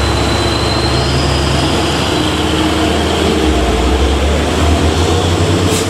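Heavy vehicle's engine running with a deep, steady low drone over road noise; the engine note shifts about three and a half seconds in.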